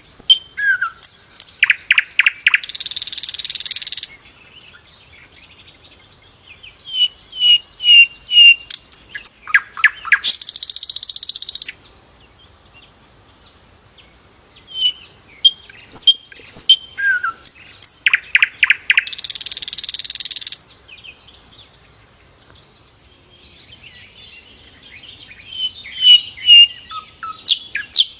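Sikatan londo flycatcher singing in phrases of high whistled notes, fast ticking trills and a harsh buzzy rasp about a second long. The bout is followed by a pause, then repeats in the same pattern.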